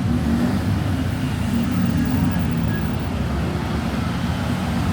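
Street traffic: a steady low rumble of motor vehicle engines passing and idling, with faint voices mixed in.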